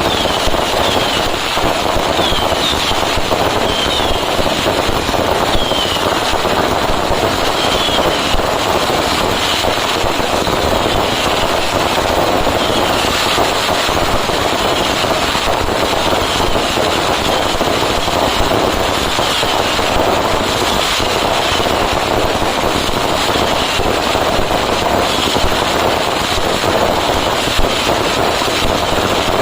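Long, dense barrage of firecrackers going off in rapid unbroken succession, a steady loud crackle without pauses, with short falling whistles heard above it, mostly in the first half.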